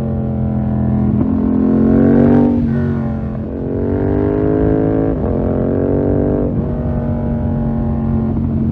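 Yamaha MT-07's parallel-twin engine through a full SC-Project 2-1 exhaust, riding under throttle. The revs climb and drop back sharply three times, as in quick gear changes.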